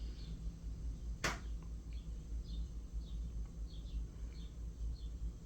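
Outdoor ambience with faint, short bird chirps repeating every half second or so over a low rumble of wind on the microphone. One sharp click sounds about a second in.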